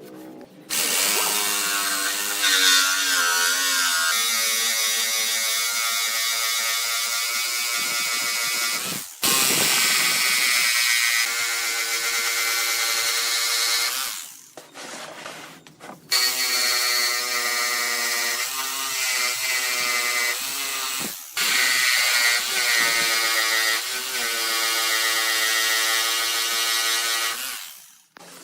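An electric power tool running in four stretches of several seconds each, with short stops between, giving a steady pitched whine over a loud hiss.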